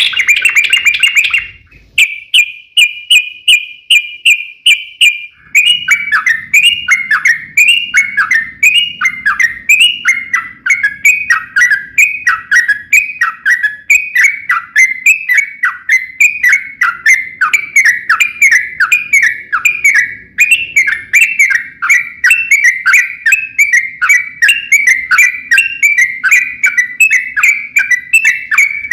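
Yellow-vented bulbul (trucukan) singing a long, unbroken rolling song. A rapid trill near the start gives way to a continuous run of quick down-slurred chattering notes, about two a second, over a faint low hum.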